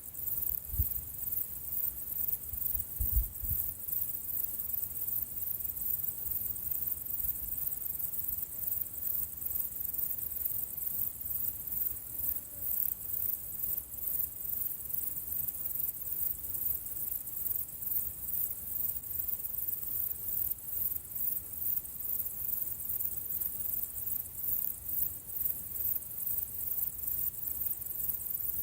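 Insects chirring steadily in a rapid, high-pitched pulse, with a faint low rumble beneath and a couple of soft low thumps in the first few seconds.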